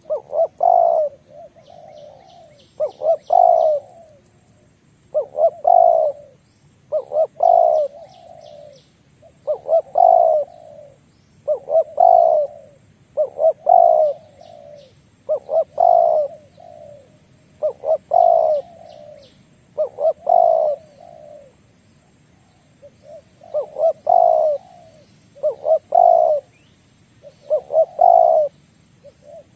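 Spotted dove (tekukur) cooing over and over, a phrase about every two seconds: a couple of short notes, then a longer, louder coo. Faint high chirps of small birds between the phrases.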